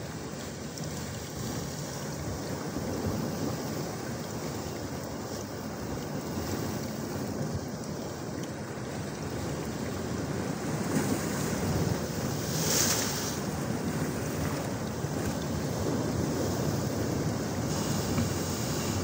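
Steady rush of powerful moving water, growing slowly louder, with wind on the microphone. A brief sharper hiss comes about two-thirds of the way through.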